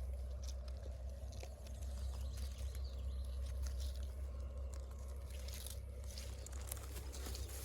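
Scattered crunching and crackling of dry vegetation being trodden or brushed through, with many small clicks, over a steady low rumble.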